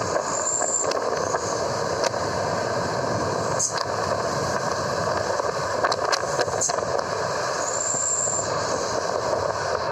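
Motor vehicle running: a steady engine and road noise, with a few faint clicks.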